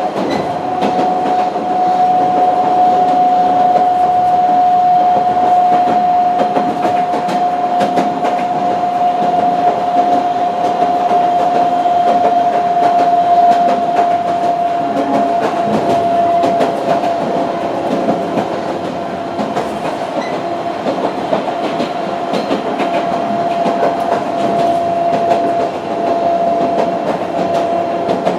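Narrow-gauge Sangi Railway Hokusei Line passenger car under way, heard from inside: a steady running rumble with wheels clicking over rail joints. Over it runs a steady whine that slowly sinks a little in pitch.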